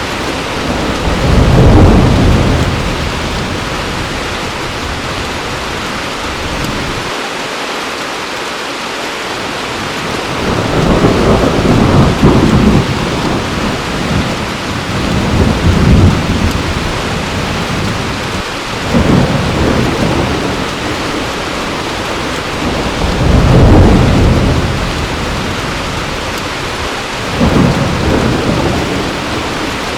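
Heavy rain pouring steadily, with about six low rolls of thunder that swell and fade one after another, the biggest near the start and about two-thirds of the way through.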